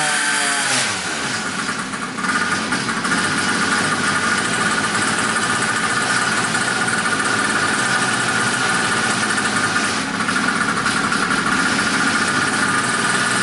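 Chinese 50cc two-stroke engine, just started, running steadily; its revs drop and settle in the first second or so.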